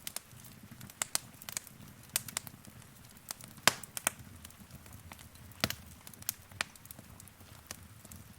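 Wood fire in a fireplace crackling: irregular sharp pops and snaps, a few a second, over a low soft rumble of the flames, with the loudest pop a little before halfway.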